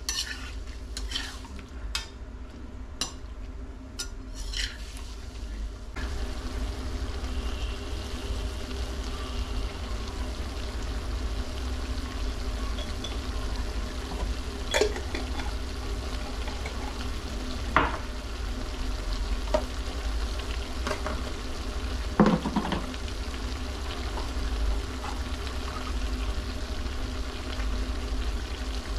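Cubes of goat liver frying in a pan as their water cooks off, with a steady sizzle. A spoon stirs and clicks against the pan several times in the first few seconds, then knocks against it a few more times later on.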